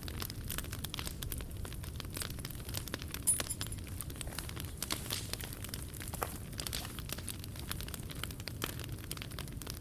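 Wood campfire crackling, with frequent small pops and snaps over a steady low rumble; the sharpest snap comes about three seconds in.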